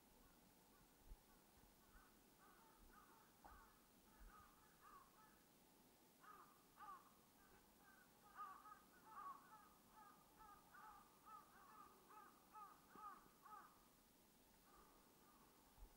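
A bird calling in a quick run of short repeated notes, about two or three a second, faint, thickest through the middle and later part before it fades. Faint soft thumps of footsteps on the path underlie it.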